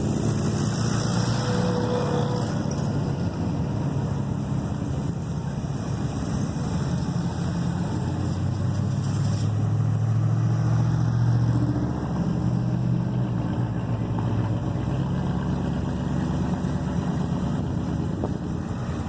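Car engines running with a low exhaust rumble, growing louder about ten seconds in and easing off again about two seconds later.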